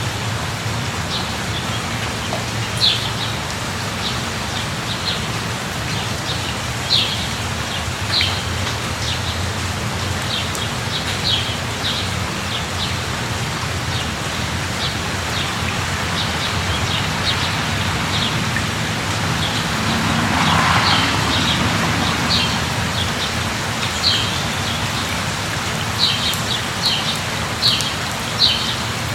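Steady rain falling, with short high bird chirps repeating throughout, more of them near the end. About twenty seconds in, a soft swell of noise rises and fades.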